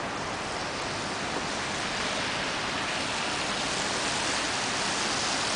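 Steady, even hiss of outdoor street ambience, growing slightly louder toward the end.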